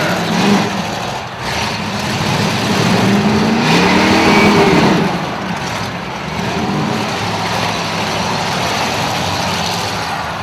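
Motorhome engines running and revving in a demolition derby, their pitch rising and falling, loudest a few seconds in.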